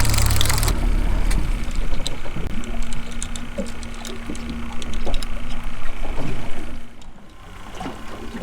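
Boat under way with its motor running and wind noise on the microphone, changing abruptly about a second in to a quieter stretch of water splashing and knocks with a steady hum. The sound drops off further near the end.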